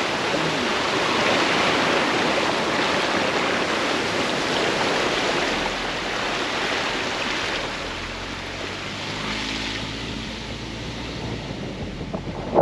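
Waterfall's water pouring and splashing: a loud, steady rush of noise, with a faint low rumble joining about halfway through.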